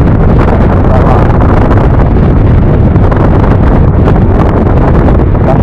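Loud, steady wind rush over the microphone on a moving scooter, mixed with the scooter's running and road noise.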